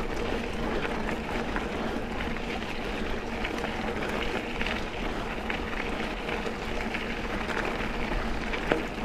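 Mountain bike rolling along a dirt double-track trail: steady tyre and wind noise with scattered small clicks and rattles from the bike.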